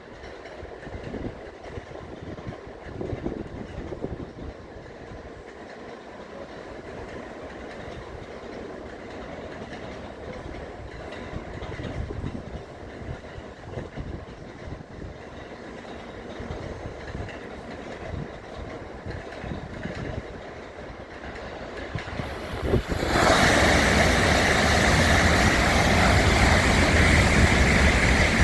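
Tokaido Shinkansen train rushing through the station at speed. A low rumble builds for most of the time, then about 23 seconds in a sudden, loud rushing roar takes over and holds near the end.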